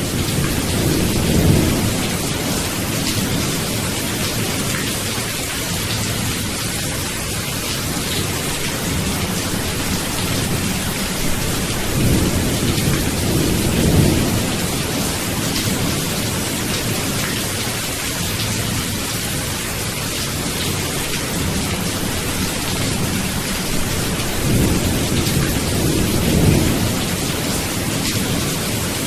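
Steady heavy rain hissing, with low rolls of thunder swelling and fading three times: near the start, about halfway through and near the end.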